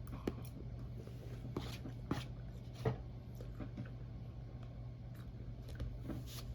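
Close-up eating sounds of pancakes being eaten: a few scattered soft clicks and smacks, the sharpest about three seconds in, over a steady low hum.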